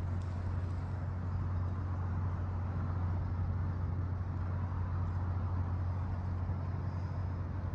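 A steady low mechanical hum over an even background rumble, with no distinct events.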